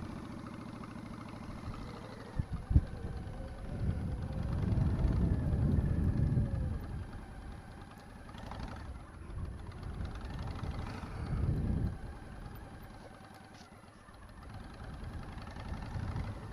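Motorcycle engine running at low speed, swelling louder twice as it is throttled up and then easing off, with a single sharp click about three seconds in.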